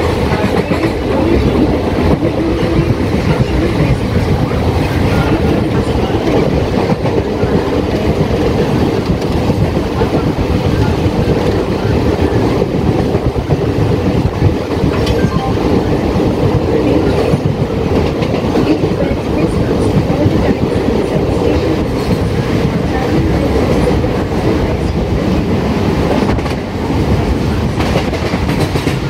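Local passenger train running at speed, with a loud steady rumble of wheels on the track and clattering over the rails.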